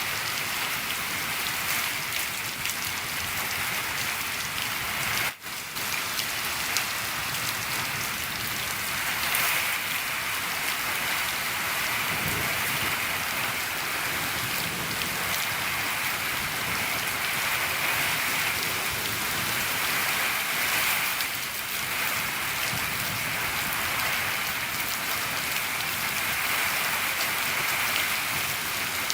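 Steady rain falling on a shed roof, an even hiss of many drops, with a split-second dropout about five seconds in.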